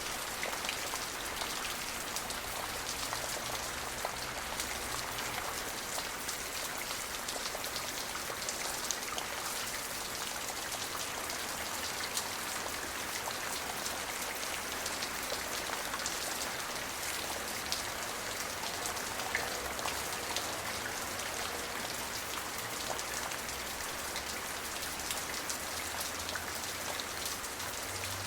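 Steady rain falling, an even hiss with many separate drops heard as small ticks hitting a surface.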